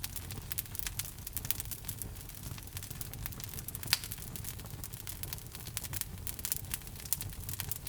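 Wood log fire burning in a fireplace: a steady low rumble of flames with many irregular crackles and snaps, one sharper pop about four seconds in.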